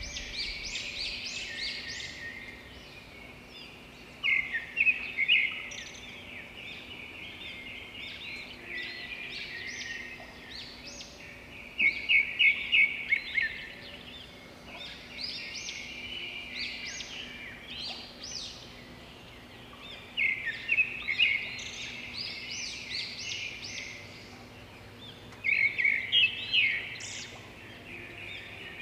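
Birds chirping and singing in quick high-pitched phrases, with louder bursts of song every several seconds.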